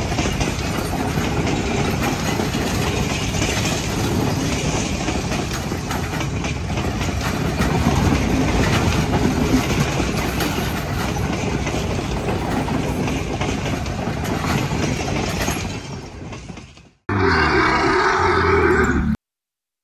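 Passenger train carriages rolling past close by, wheels running over the rails in a steady rumble that fades away about three seconds before the end. After a short break comes a different two-second sound with a pitched tone, which then cuts off into silence.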